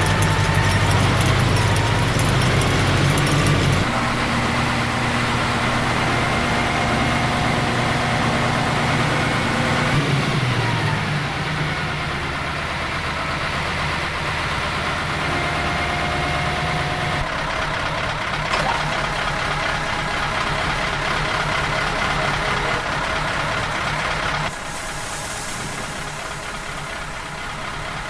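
Engines of snow-clearing machines running steadily, the sound changing abruptly about 4 seconds in and again near the end, with the engine pitch dropping about 10 seconds in.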